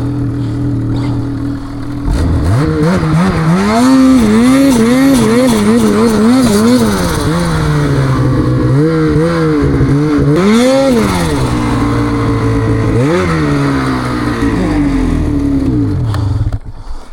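Snowmobile engine running steadily, then revved hard from about two seconds in, its pitch swinging up and down about twice a second as the throttle is worked to force the sled through a hard stretch of snow. There are two bigger revs later, and the sound drops away sharply near the end.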